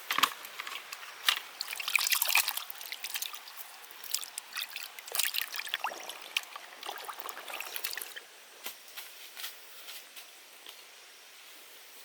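Water splashing and trickling in short, irregular bursts; busy for the first eight seconds or so, then thinning out to occasional drips.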